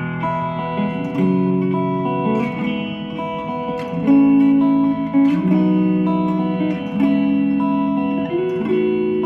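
Guitar strumming a sequence of open-chord shapes in the key of E, moved up the neck with all six strings and the open strings ringing. The chord changes about every second and a half, each one left to sustain.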